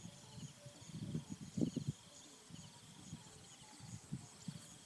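Rural outdoor ambience with steady, repeated high-pitched chirping, and a spell of close rustling and soft knocks about a second in.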